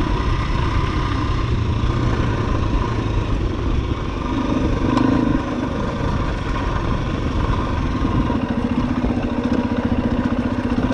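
Enduro dirt bike engine running steadily at low to moderate revs, with a brief change in revs about four to five seconds in.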